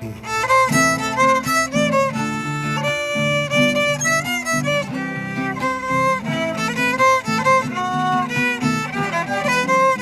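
Violin playing a melody of quick, separate notes, some with vibrato, over a lower accompaniment.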